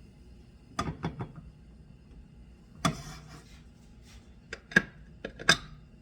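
Sharp knocks and clatters of things being handled: three quick knocks about a second in, one louder knock near the middle, and a cluster of knocks near the end.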